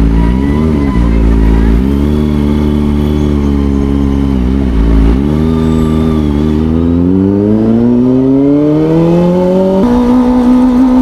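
Kawasaki ZX-25R's inline-four engine through an Orion aftermarket exhaust, the bike under way: the pitch dips briefly twice and comes back, then climbs steadily as the bike accelerates, and drops sharply near the end as it changes up a gear.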